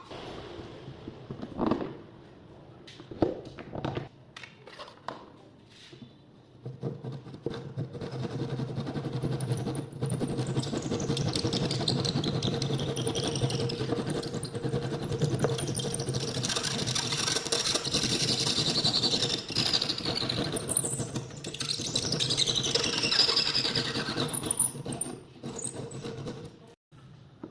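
A few knocks, then a handheld electric power tool running steadily for about twenty seconds, with a constant hum and a high whine that rises and falls as it works the wood.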